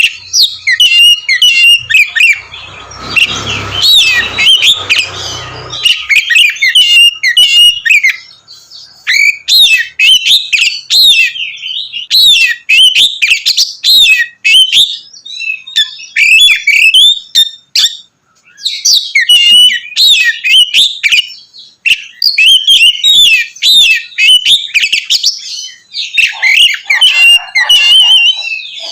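Oriental magpie-robin (kacer) singing loudly and almost without a break: a fast, varied stream of clear whistles, slurred notes and harsh chattering phrases, broken by a few short pauses. A low rumbling noise runs under the song for a few seconds early on.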